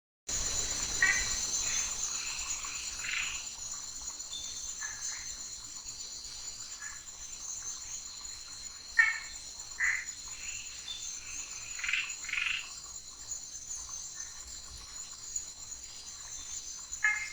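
Night chorus of forest insects trilling steadily at a high pitch, with frogs giving short calls every few seconds, loudest about nine seconds in and again near the end.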